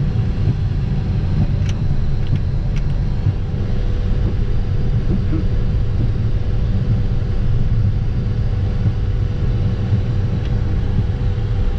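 Dassault Falcon 50's three turbofan engines running steadily while taxiing, a low rumble with a steady hum over it. A few faint clicks come about two seconds in.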